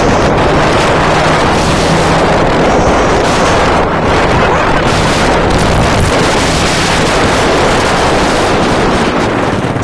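Loud, steady wind rushing over the microphone of a moving ride, with a low steady engine hum underneath.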